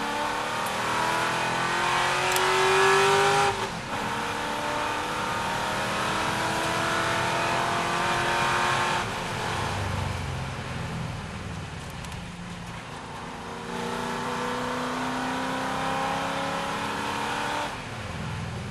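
C6 Corvette's V8 engine under full racing load, its pitch climbing steadily through each gear. The pitch drops off sharply about three and a half seconds in, again around nine seconds, and again near the end, as it shifts or lifts.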